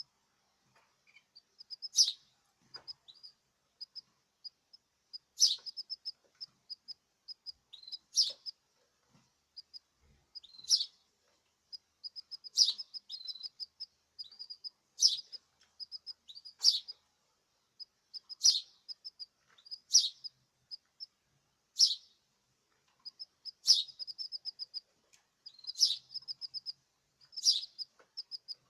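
Male caged songbird singing: runs of rapid high chirping notes, with a loud sharp call every two to three seconds.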